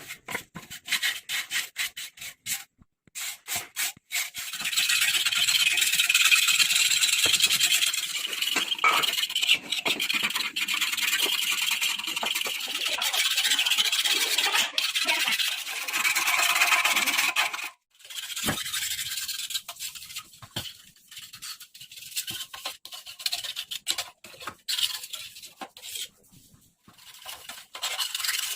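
Abrasive rubbing and scraping on a part: short irregular strokes, then a steady rasp from about four seconds in until about eighteen seconds in, then short irregular strokes again.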